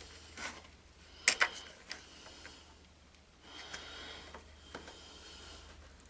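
Metal clinks of hand tools during work on a hookup: two sharp clinks close together about a second in, a lighter one soon after, then soft rattling and handling noise.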